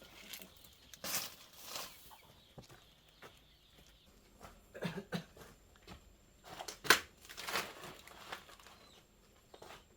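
Chickens clucking amid scattered knocks and rustling, the sharpest knock coming about seven seconds in.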